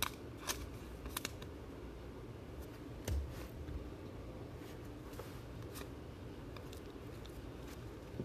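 Trading cards and packaging being handled: a few short clicks and rustles, the sharpest near the start and about three seconds in, over a low steady background hum.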